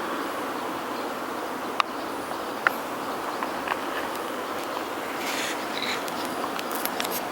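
Steady outdoor insect chorus, with a couple of short sharp clicks about two and three seconds in.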